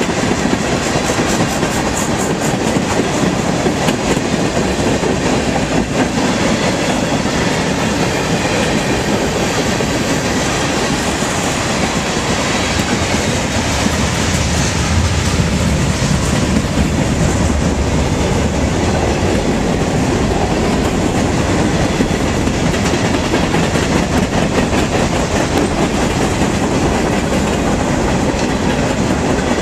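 Covered hopper cars of a freight train rolling past close by: a steady, loud rumble of wheels on rail, with clicks as the wheels cross the rail joints.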